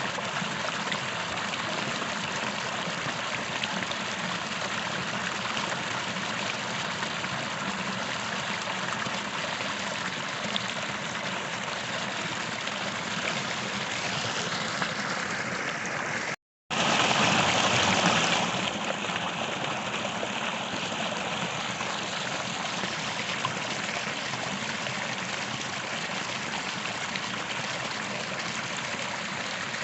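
A small creek running over rocks: steady rushing and trickling water. About halfway the sound cuts out for a split second, then comes back louder for a couple of seconds before settling to the same steady flow.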